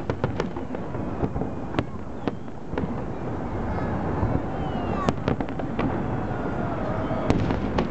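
Aerial fireworks shells bursting overhead in a quick, irregular series of sharp bangs.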